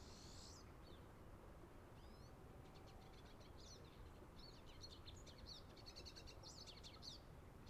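Faint songbirds chirping and twittering: scattered high calls at first, then a busier run of quick, high notes from about three seconds in. Under them is a steady low background rumble.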